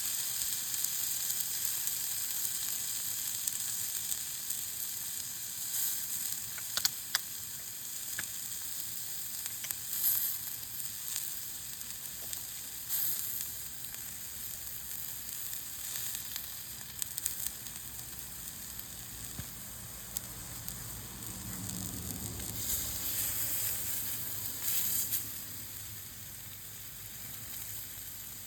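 Meat sizzling as it cooks over a campfire: a steady high hiss with scattered sharp pops and crackles.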